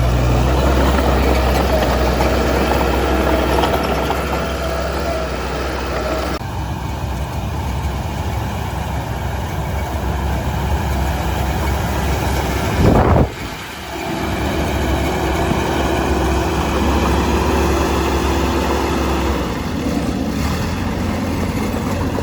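Diesel engine of heavy construction machinery running steadily. Its sound changes abruptly a couple of times, and a short loud burst comes about two-thirds of the way through.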